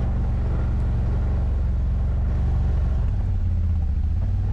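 ATV engine running, a low steady drone whose pitch steps up and down with the throttle.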